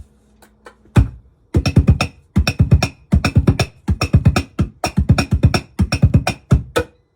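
Laptop cajon struck by hand and run through a Digitech BP355 multi-effects pedal: one hit about a second in, then a fast, dense rhythm of effect-processed drum strokes with a low, booming tail.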